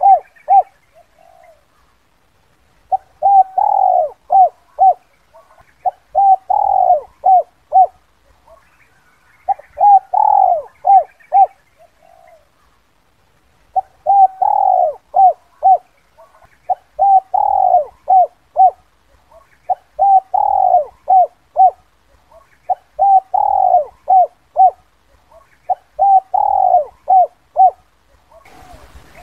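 Spotted dove (Streptopelia chinensis) cooing in repeated phrases, about nine of them, each a longer coo followed by a quick run of short notes, with a short pause between phrases. This is the 'kuk 2' call that bird-keepers play as a lure for wild spotted doves.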